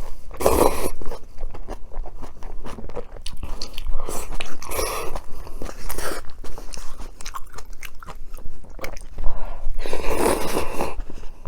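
Close-miked eating: chewing and crunchy bites, with a few louder bites standing out.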